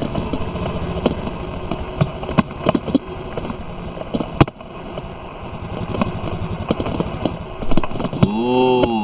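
Dirt bike engine running at low revs with scattered knocks and clatter, then revving up and back down once near the end.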